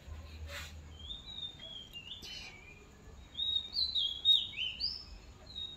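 A small songbird chirping, a run of short high chirps and falling whistled notes that grows busiest and loudest past the middle. Early on there are a couple of brief scrapes from a hand peeler on a carrot.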